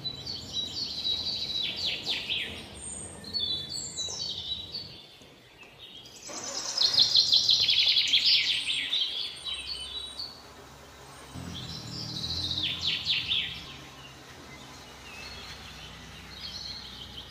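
Small birds chirping in rapid, high trills, coming in three bouts with short lulls between them.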